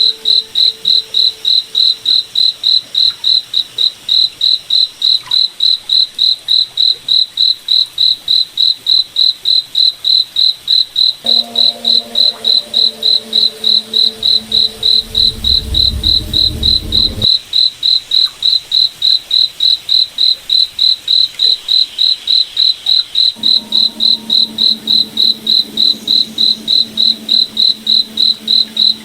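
Cricket chirping steadily and rhythmically, a little over three chirps a second, at a single high pitch. A low droning hum rises in the background twice, deepening for a few seconds the first time.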